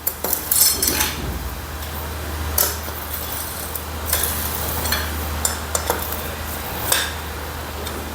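Light metallic clinks and knocks of steel bolts and hand tools being handled and fitted into a motorcycle engine's cover, coming irregularly about once a second over a steady low hum.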